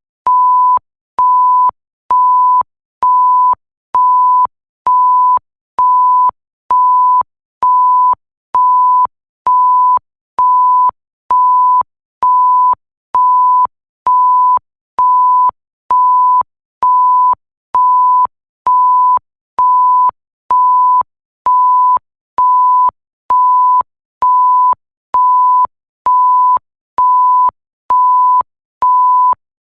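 Electronic bleep sound effect: a single steady high tone in beeps about half a second long, repeated about once a second, each switching on and off with a faint click.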